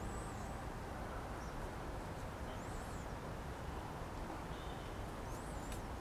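Steady low outdoor background rumble with a few faint, very high, thin wavering chirps from small birds, one near the start, one about halfway and one near the end, and a faint click just at the end.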